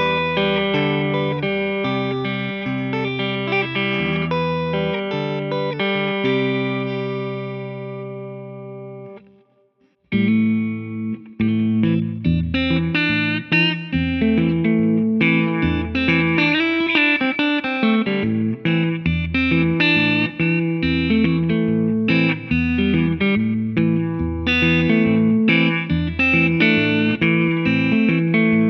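Gibson ES-335 semi-hollow electric guitar played fingerstyle: a passage rings out and fades almost to silence about nine seconds in, then a new fingerpicked pattern starts, with steady bass notes under the melody.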